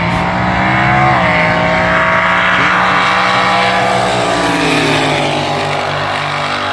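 Front-engine dragster's injected small-block Chevrolet V8 running at full throttle on a drag-strip pass. Its pitch steps down about a second in, then falls slowly over the last couple of seconds.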